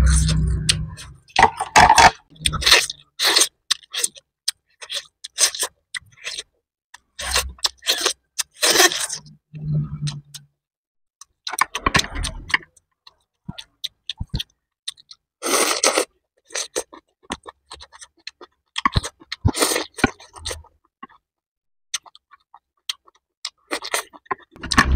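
Close-miked eating: wet chewing and crunching of shredded chicken salad with peeled rambutans, in irregular bursts with short pauses. Wooden chopsticks scrape and click against the plate now and then.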